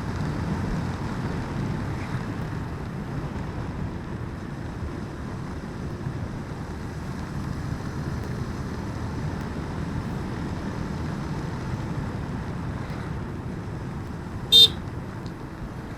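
Motorcycle riding along with steady engine and road noise, then a single short, loud horn toot near the end.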